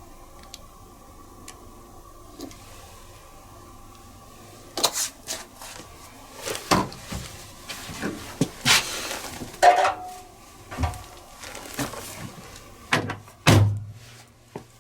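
Hands-on handling sounds while a Miele Little Giant commercial washing machine is loaded: a faint steady hum at first, then a run of sharp clicks and knocks with a brief rustle, and a heavy thump near the end, the loudest sound here.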